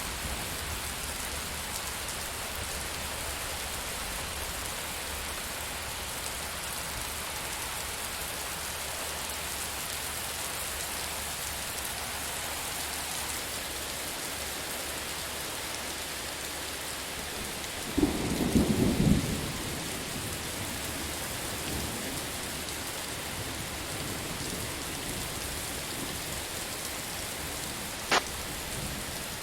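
Steady rain falling, with a short loud clap of thunder about two-thirds of the way through that lasts about a second and a half. A single sharp click comes near the end.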